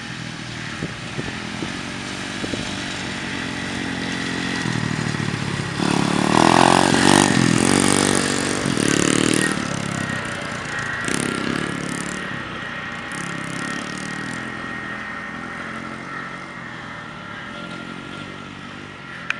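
A 125cc pit bike's small single-cylinder engine running as it is ridden. The engine note grows louder, is loudest and revs hardest between about six and nine seconds in, then fades away.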